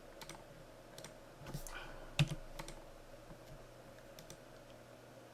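Faint, scattered clicks of a computer keyboard and mouse, with one louder click a little over two seconds in.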